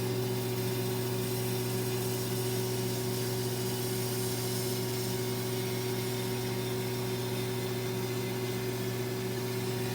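Microwave oven running with a steady electrical hum and fan hiss while it cooks a whole apple, whose juice is sizzling inside.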